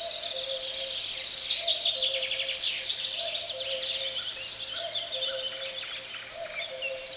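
Forest birdsong: many small birds chirping and trilling together, over a low two-note call, higher then lower, that repeats about every second and a half.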